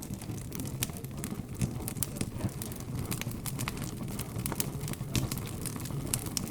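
Wood fire crackling with frequent sharp pops, several a second, over a low murmur of background chatter.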